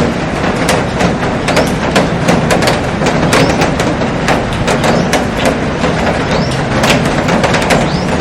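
Heavy rain falling on a glass roof and garden: a dense, steady hiss with many sharp drop taps scattered throughout.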